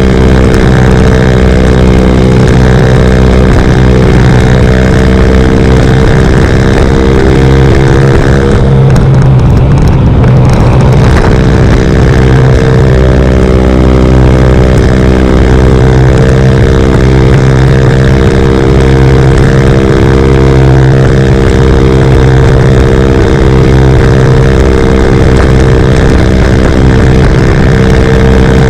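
Single-cylinder engine of a CF Moto Papio running loud and steady through a Yoshimura RS-9 exhaust, with a brief change in the note about nine seconds in before it settles back to the same even pitch.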